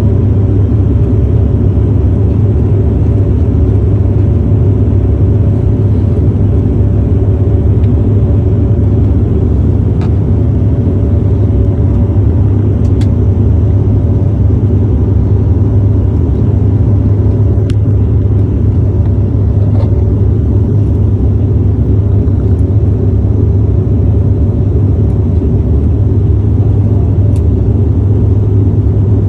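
Steady, loud rumble of an airliner's cabin, engine and airflow noise, with a faint steady hum above it.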